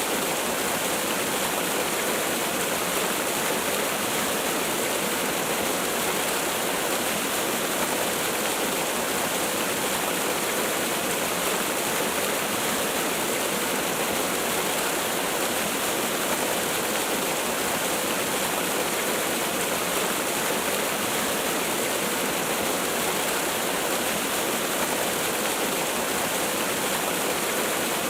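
Waterfall rushing, a steady, unbroken splashing hiss of falling water.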